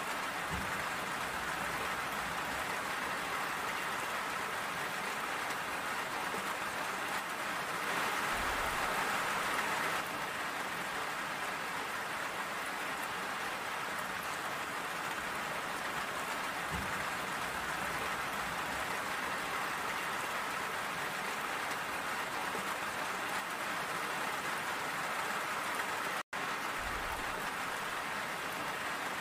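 Steady rain falling, a dense even hiss that swells a little heavier for about two seconds a third of the way in. The sound cuts out for a split second near the end.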